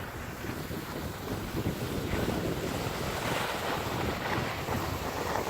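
Wind buffeting the microphone: a rough, rushing noise that grows louder about a second and a half in.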